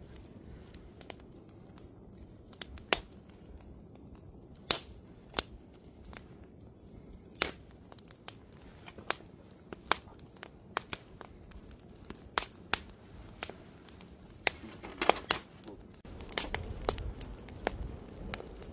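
Wood campfire crackling, with irregular sharp pops and snaps. A low rumble joins near the end.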